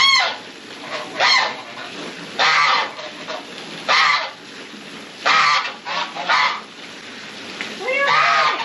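Domestic geese honking: about seven loud, harsh calls repeating every second or so.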